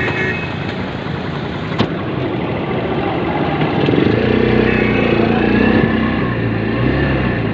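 A motor vehicle engine running in a flooded, rain-soaked street, its steady drone growing louder about four seconds in, over a constant hiss of rain and water. A single sharp click about two seconds in.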